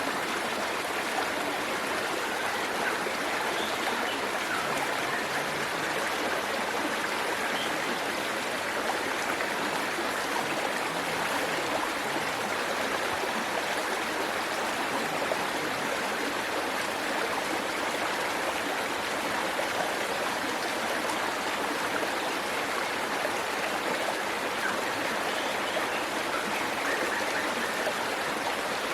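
Waterfall's water rushing and splashing in a steady, even rush that does not change.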